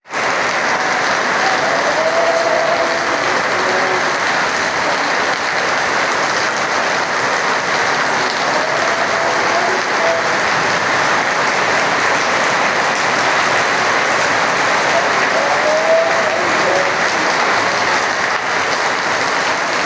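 Heavy rain falling, a dense, steady hiss. A faint short rising tone sounds three times.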